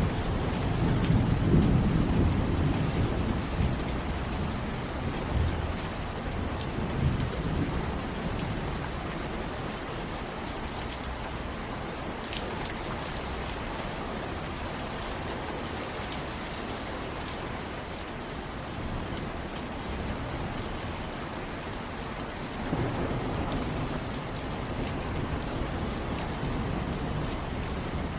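Steady rain with scattered drop ticks, and low thunder rumbling twice: in the first few seconds and again near the end.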